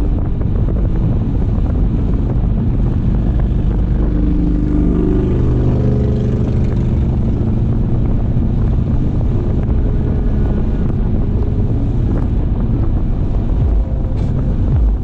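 Car driving at speed: a steady low rumble of road and wind noise, with a pitched hum that rises and falls about halfway through.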